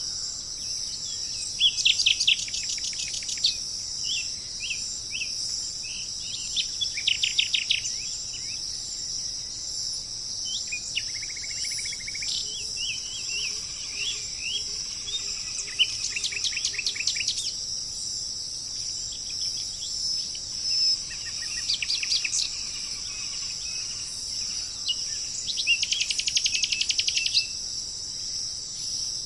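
Birds calling in bursts of rapid, repeated short notes, about five bouts, over a steady high-pitched insect drone.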